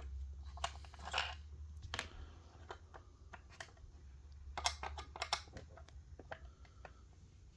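Scattered light clicks and taps of a screwdriver and a small diecast model truck being handled while its base screws are worked out, with a cluster of sharper clicks about five seconds in. A low steady hum runs underneath.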